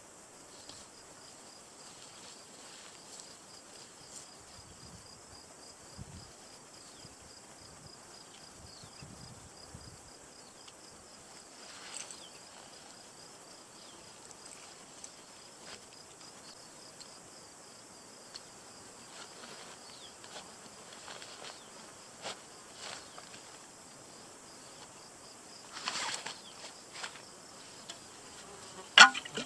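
Insects chirring steadily in a fast, high, even pulse, with scattered small clicks and knocks and a sharp, briefly ringing clink near the end.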